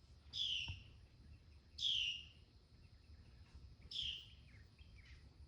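A bird calling three times, each call a short note falling in pitch, spaced about two seconds apart.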